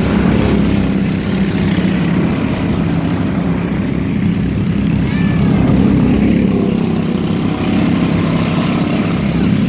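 Racing mini trucks' engines running at speed around the oval: a loud, steady engine drone.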